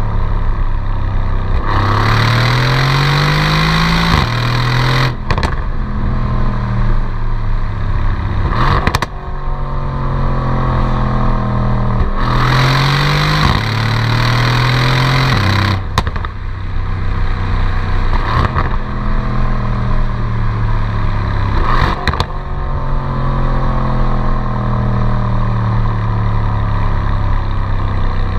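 Mercedes-AMG C63's twin-turbo V8 exhaust under hard acceleration, rising in pitch twice, with sharp cracks at a few points and falling tones as the revs drop away between pulls.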